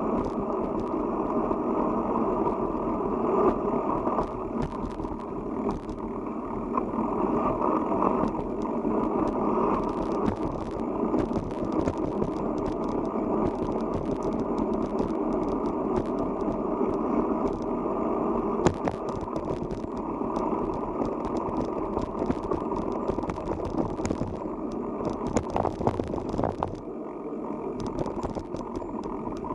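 Steady rushing noise of a bicycle being ridden on a forest road, tyres and wind on the microphone, with scattered clicks and rattles throughout.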